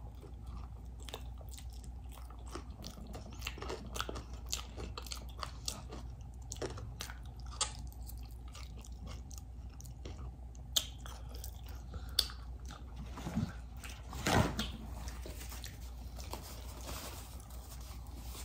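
Close-miked chewing of a bite of hot dog topped with crushed chips, with many sharp crunches and a few louder crunches in the second half.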